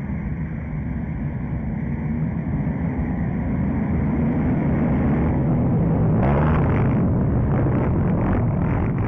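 Motocross bike engines running hard, growing louder as they near and loudest about six seconds in, where a rougher, noisier sound joins.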